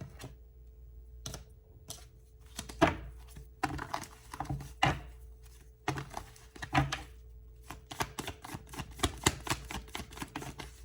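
Tarot cards being handled and laid down on a table: a run of irregular light clicks and taps, thicker in the second half.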